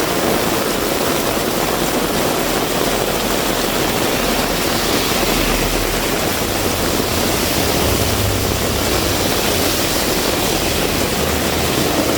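Heavy rain pouring steadily. From about six seconds in, the low hum of a vehicle engine grows in under the rain.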